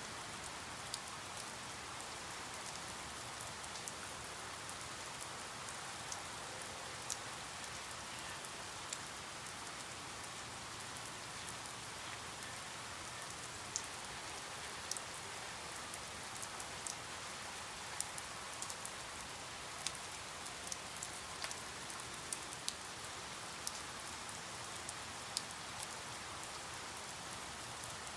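Steady rain falling, an even hiss with scattered sharper drips of individual drops landing on a surface.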